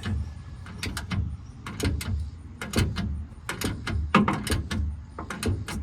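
Socket ratchet clicking in short repeated strokes as a rusted bolt is turned out a little at a time, the clicks coming in small clusters about once a second over a low rumble.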